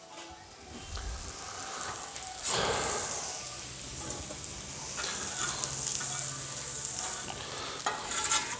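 Shrimp and vegetables sizzling on a Blackstone flat-top griddle, the sizzle growing louder about two and a half seconds in, with a few light clicks.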